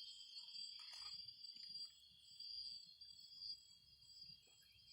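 Steady high-pitched chorus of crickets and other insects trilling without a break. A brief faint rustle comes about a second in.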